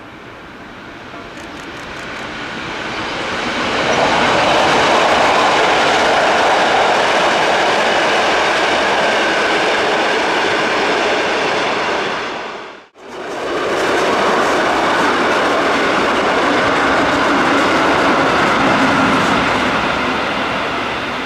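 A Rhaetian Railway metre-gauge regional train, a Ge 4/4 II electric locomotive with its coaches, passing close by, its wheels running over the rails. The noise builds over the first four seconds and stays loud, cuts out for a moment about 13 seconds in, then resumes just as loud.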